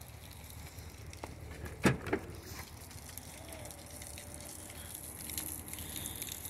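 Two sharp knocks in quick succession about two seconds in, a quarter second apart, over a faint low steady hum.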